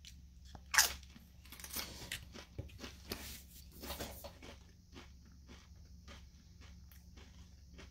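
A person chewing a crunchy bite of hummus close to the microphone: a sharp crunch about a second in, then irregular soft crunches that thin out after about five seconds.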